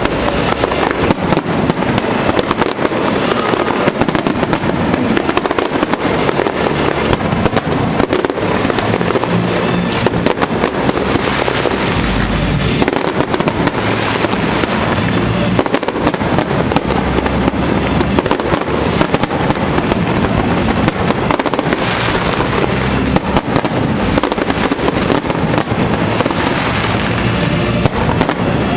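Aerial fireworks bursting and crackling in a dense, continuous barrage, with music playing underneath.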